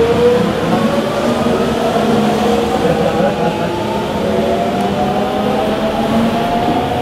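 JR Central 373 series electric train pulling out and accelerating: its inverter-driven traction motors whine in several tones that rise steadily in pitch, over a steady running rumble.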